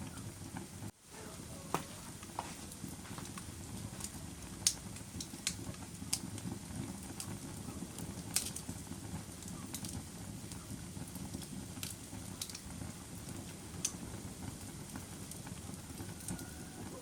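Wood fire burning in a fireplace: a steady low rush of flame with sharp crackles and pops at irregular intervals. The sound briefly drops out about a second in.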